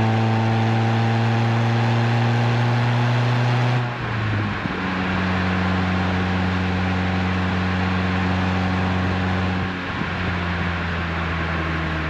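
Renault Twingo RS Gordini's 1.6-litre four-cylinder engine running through an Inoxcar 80mm stainless steel exhaust, pulling steadily at low revs in relaxed driving. There are two brief lulls, about four seconds and ten seconds in. After the first, the engine note settles at a lower pitch.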